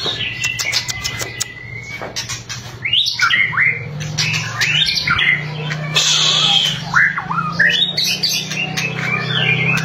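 White-rumped shama (murai batu) singing: a fast clicking rattle (its 'kretekan') in the first second and a half, then a run of varied whistled notes sweeping up and down.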